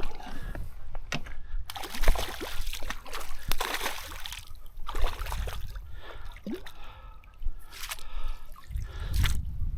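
A hooked trout splashing and thrashing at the water's surface as it is played in and landed, in irregular bursts of splashes and sloshing.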